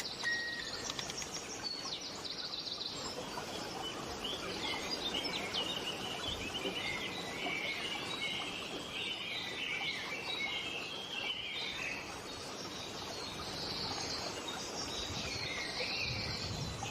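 Songbirds chirping and twittering in many quick, overlapping calls over a steady background hiss of outdoor ambience.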